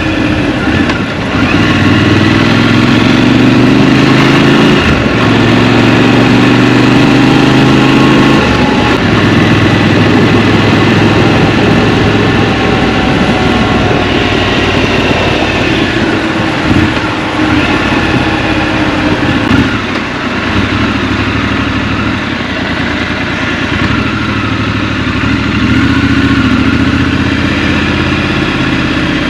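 Scrambler motorcycle engine heard from the rider's seat, pulling up through the gears several times, the pitch climbing and dropping back at each shift, with easier running in between.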